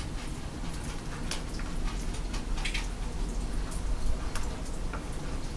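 Meat-stuffed eggplant rolls frying in oil in a shallow pan: irregular pops and crackles of spitting oil over a steady low rumble.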